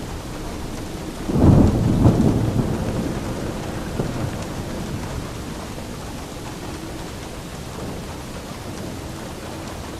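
Steady rain falling, with a thunderclap about a second in that rumbles loudly for a moment and then fades away over several seconds.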